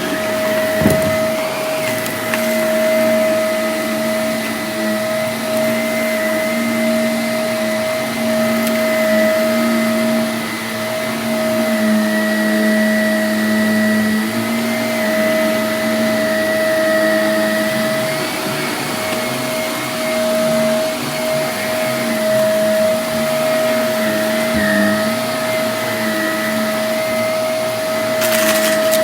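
Vacuum cleaner running steadily with a constant high-pitched whine. It picks up a couple of brief clicks, about a second in and again near the end.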